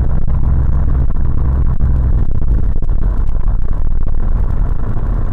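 A car on the move: a loud, steady low rumble of engine and road noise with a light clatter on top.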